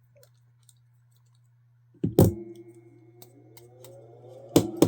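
Small parts of a Benchmade Mini Griptilian folding knife clicking and scraping as it is forced apart by hand during disassembly: a sharp click about two seconds in, a rising squeaky scrape, then two quick clicks near the end.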